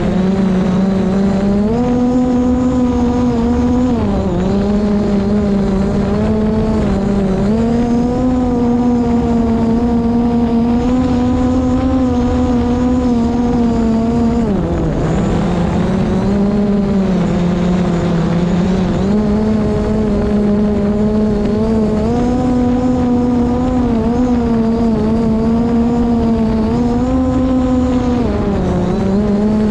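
DJI Mavic Pro quadcopter's propellers whining steadily, the pitch stepping up and down every few seconds as the motors adjust against strong wind, with one deeper dip about halfway. Wind rumbles underneath.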